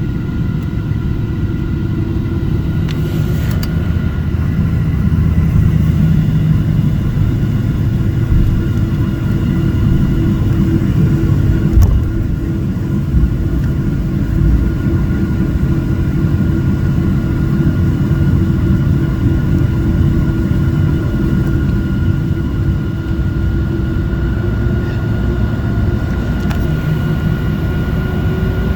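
Airliner's engines heard from inside the cabin while taxiing: a steady low rumble under an even engine whine, with one short knock about twelve seconds in. Near the end the whine starts to rise in pitch.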